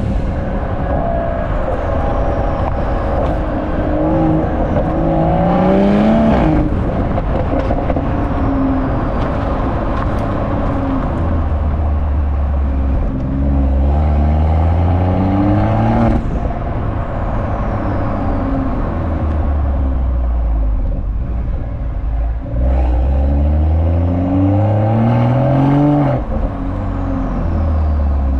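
BMW M340i's B58 3.0-litre turbocharged inline-six exhaust through three hard acceleration pulls about ten seconds apart: each time the note rises in pitch, steps down at a gear change and climbs again, then falls back to a steady low drone between pulls.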